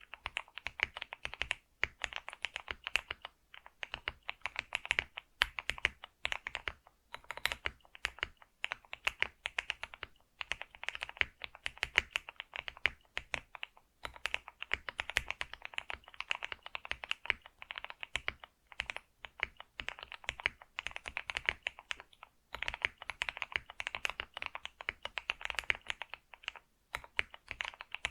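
Continuous typing on a computer keyboard: rapid key clicks in runs of several seconds, broken by short pauses.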